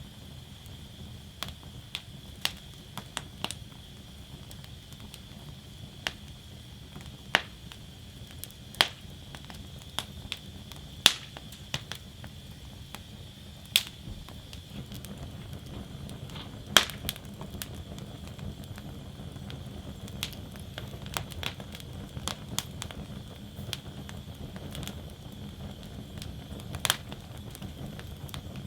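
Wood fire burning in a metal fire basket, crackling with irregular sharp pops and snaps over a low, steady rumble of flames.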